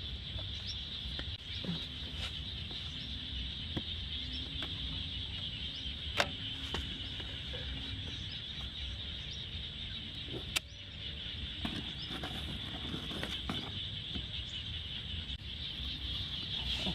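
Steady high-pitched insect drone, breaking off briefly about two-thirds of the way through and then resuming, with a few sharp clicks and a low rumble underneath.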